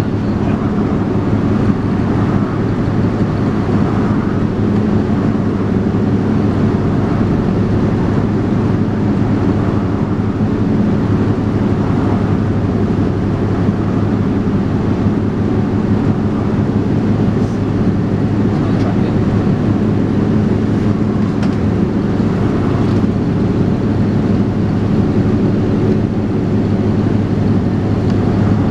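Dennis Trident 2 double-decker bus engine running steadily under way, heard from inside the bus, with a steady low drone.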